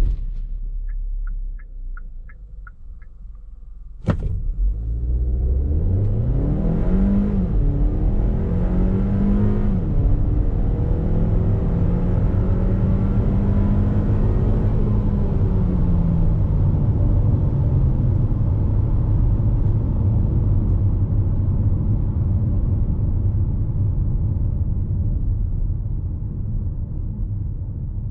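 The 2020 Hyundai Tucson's 1.6-litre turbo-petrol four-cylinder accelerating hard from a standstill. The engine note climbs in pitch and drops at each upshift of the seven-speed dual-clutch gearbox, then eases off to a steady drone that fades near the end. Before the launch there is a row of short quick ticks, then a sharp knock about four seconds in as the run begins.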